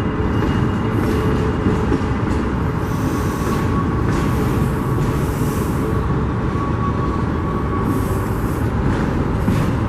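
Union Pacific freight train rolling past with a steady, dense rumble of wheels and cars on the rails. A faint thin tone sits over it through the middle.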